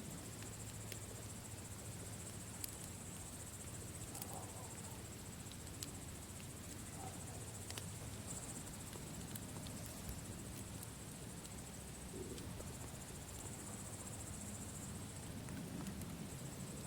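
Campfire ambience: wood fire crackling with scattered sharp pops, over a steady high-pitched chirring.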